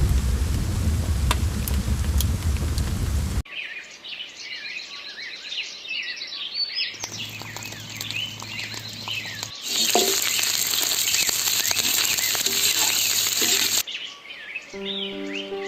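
Many small birds chirping and singing in a dense chorus. A loud rushing noise covers them for the first three seconds or so, and again from about seven seconds in until near fourteen seconds, this time with a low hum. Steady musical tones come in near the end.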